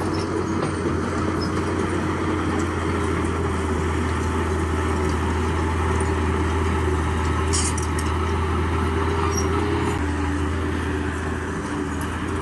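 Heavy diesel construction machinery engine running steadily, its note dropping slightly about ten seconds in, with a brief metallic click about seven and a half seconds in.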